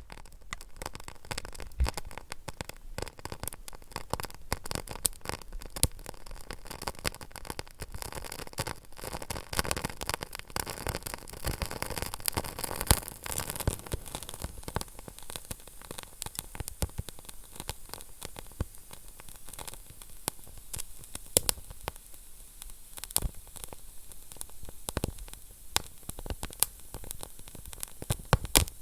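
Wood fire burning in a fireplace, crackling and popping irregularly over a steady hiss, with a few louder snaps.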